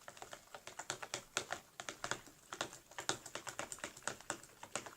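Slime being stirred in a plastic tub during activation: a rapid, irregular run of small clicks and taps from the stirring utensil working the sticky slime.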